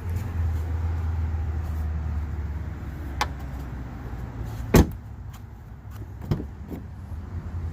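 A steady low rumble inside a pickup truck's cab, with a few sharp clicks and one loud thump about five seconds in.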